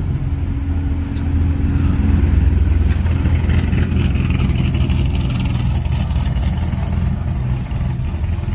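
Dodge Viper's V10 engine running at low speed as the car rolls slowly past close by, its low rumble swelling about two seconds in.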